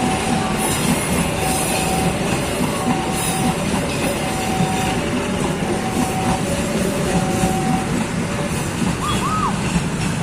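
Indonesian passenger train running by, a steady loud rumble of wheels on the rails. A short, steady tone repeats about every second and a half through most of it, and a couple of brief gliding tones come near the end.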